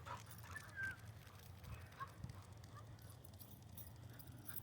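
Near silence: faint outdoor background with a steady low hum and a brief faint chirp about a second in.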